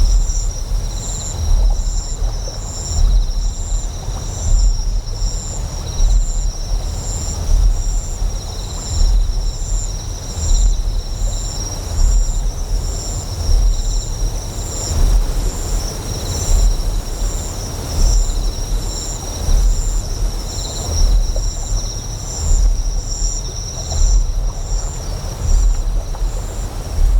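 Deep generator hum that swells in a slow pulse about every second and a half, under a steady high chorus of chirping insects, one of them pulsing about twice a second, and a faint wash of flowing water.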